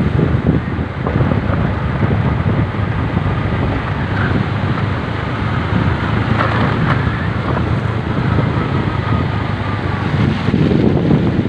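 Wind buffeting the microphone over a steady, low vehicle rumble.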